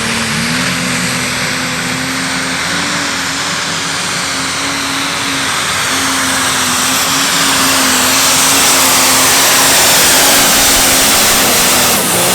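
Turbocharged diesel pulling tractor running at full throttle under load, with a steady, slightly wavering engine note and a high turbo whistle over it. Right at the end the throttle comes off and the whistle falls away.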